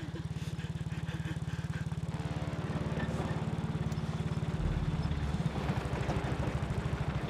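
Truck engine running with a rapid, even low pulse; its note gets heavier and deeper a little over halfway through.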